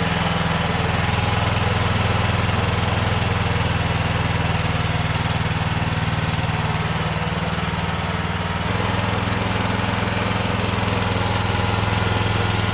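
Honda portable generator, converted from gasoline to run on natural gas, running steadily with an even engine drone.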